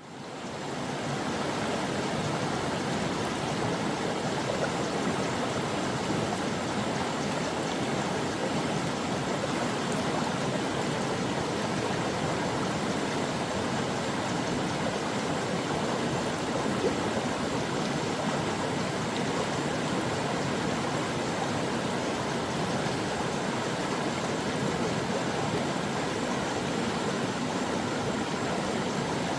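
Stream water flowing steadily over rocks, an even rushing and babbling that fades in over the first second.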